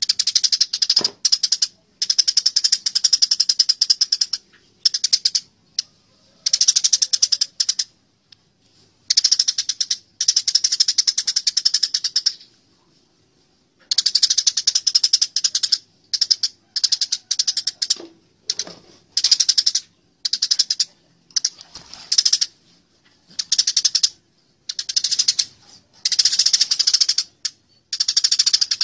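Eurasian tree sparrows giving harsh fighting chatter: rapid runs of dry, high ticks in bouts from a fraction of a second to a couple of seconds long, with short pauses between them.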